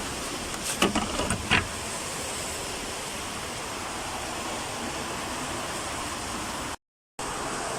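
Steady hiss of background noise with a quick cluster of sharp metal clinks and knocks about a second in, as engine parts are handled during refitting of the intake manifold. The sound cuts out completely for a moment near the end.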